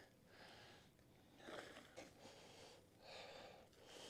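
Faint breathing close to the microphone, a soft breath about every second and a half.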